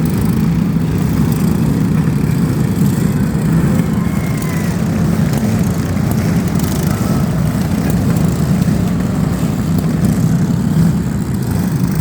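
Vehicle engines running loudly and steadily, a low droning roar.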